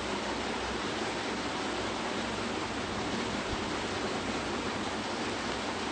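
A steady, even hiss of background noise with no other sound in it.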